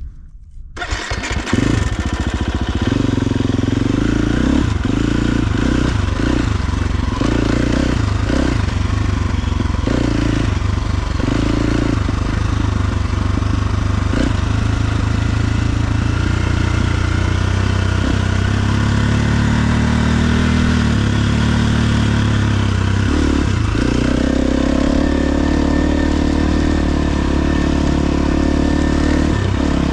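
KTM 350 XC-F dirt bike's single-cylinder four-stroke engine running while the bike is ridden, its revs rising and falling with throttle and gear changes. The engine sound comes in abruptly about a second in.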